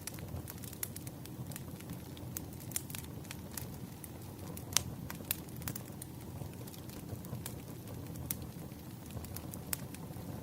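Campfire burning: a steady low rumble of flames with frequent, irregular sharp crackles and pops, the loudest pop a little before halfway.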